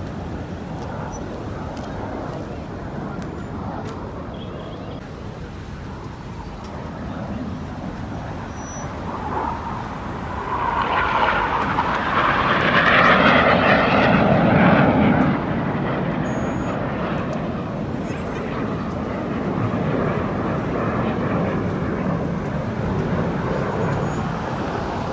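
Airplane flying over during an air show: its noise swells from about ten seconds in, peaks, and fades by about sixteen seconds, over a steady outdoor background rumble.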